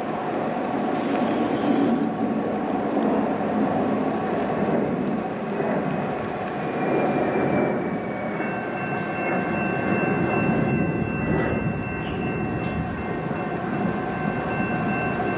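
A Norfolk Southern intermodal freight train approaching in the distance: a steady rumble. About halfway through, several thin high steady tones join in and hold.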